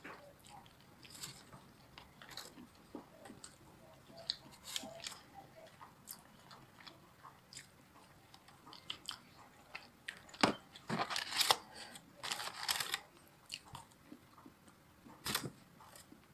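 Close-up eating sounds of spicy honey fried chicken: crunchy bites and chewing, with a louder run of crunches about two-thirds of the way through.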